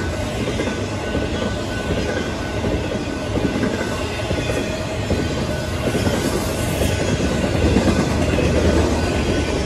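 Double-stack container cars of a freight train rolling past close by: a steady, loud rumble of steel wheels on the rails.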